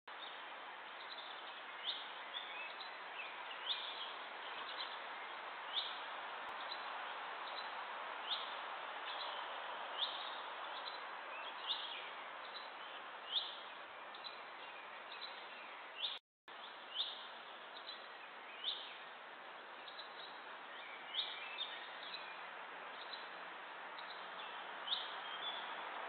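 A bird calling over and over, one short high note about every one and a half to two seconds, over a steady outdoor hiss. The sound cuts out completely for a moment about sixteen seconds in.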